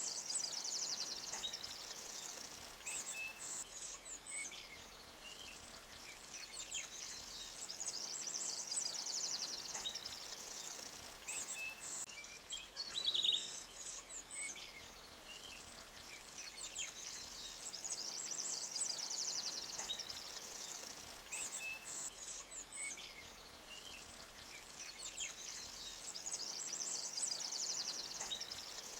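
Forest ambience: a high, fast-pulsing trill that swells and fades roughly every eight to nine seconds, with scattered short bird chirps over it and one louder chirp about halfway through. Faint creek hiss sits underneath.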